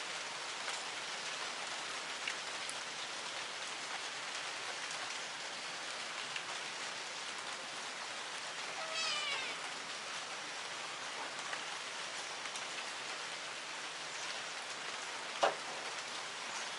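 Steady rain falling, an even hiss. About halfway through, a single short animal call rises in pitch, and near the end there is one sharp tap.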